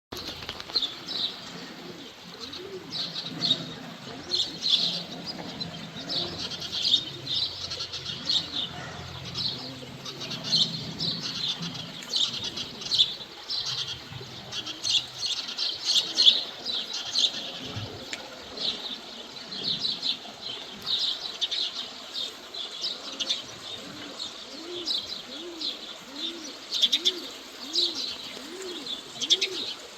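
Outdoor birdsong: many small birds chirping and twittering. Through the last few seconds a bird gives a rhythmic run of low calls, about two a second.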